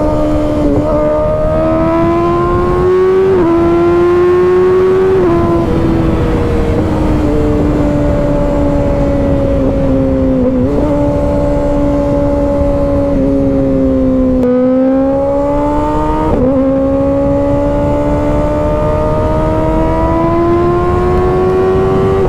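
Kawasaki ZX-6R 636 inline-four sport bike, fitted with an M4 exhaust, running under way. The engine note climbs steadily and drops sharply half a dozen times as the rider changes gear.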